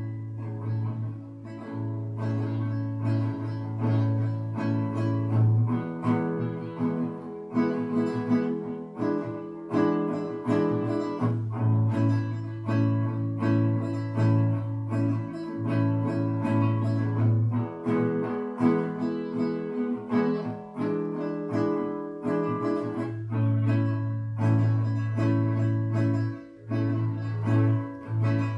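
Acoustic guitar played with a pick: a continuous run of picked and strummed chords.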